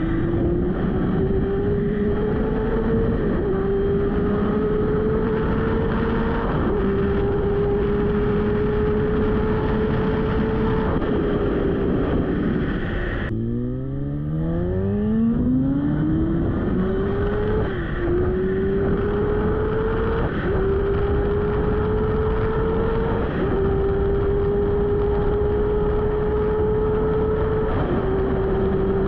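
Yamaha R1's inline-four engine under hard acceleration at high revs, its pitch climbing slowly and dipping briefly at each upshift, every few seconds. About halfway through, the revs fall away, then the engine pulls hard again from low revs with a steeply rising pitch and quick upshifts.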